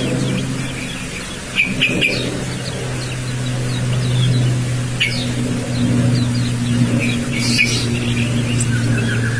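Young white-eye (pleci) giving short, scattered high chirps and twitters: the unsettled chattering of a juvenile still learning its song. A steady low hum runs underneath.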